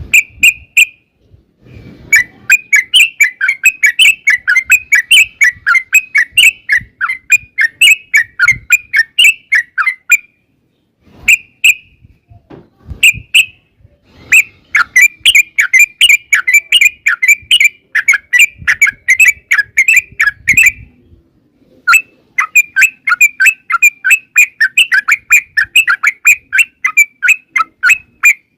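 Yellow-vented bulbul (trucukan) singing: long runs of fast, bubbly chattering notes, three extended runs broken by short pauses with a few single notes between.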